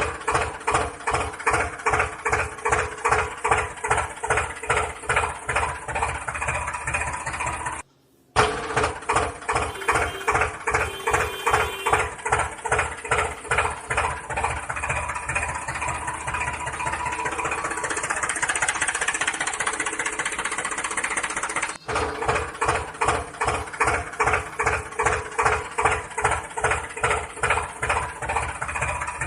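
Tractor engine running with a slow, regular putt-putt of about three beats a second. Partway through, the beats blur into a steadier running for a few seconds, then the slow beat returns. The sound cuts out briefly twice.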